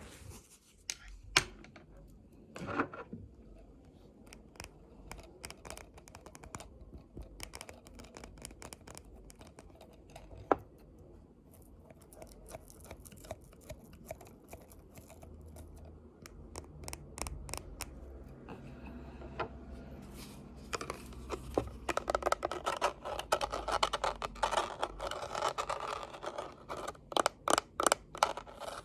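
Close-miked ASMR tapping and scratching: scattered light taps and clicks, then from about twenty seconds in a denser, louder run of scratching strokes, ending with a few sharp strokes.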